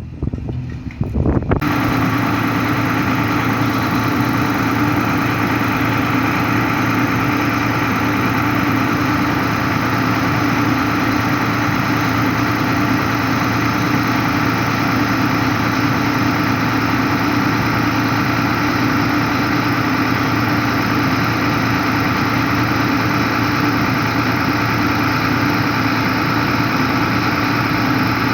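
A machine's engine running steadily at idle. It cuts in abruptly about a second and a half in and holds an unchanging pitch and level.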